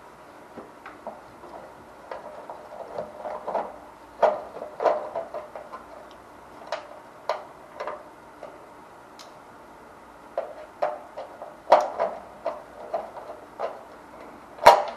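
Irregular clicks, taps and knocks of hand work on an electric water heater's side cover, with tools and screws being handled. A steady hum runs underneath.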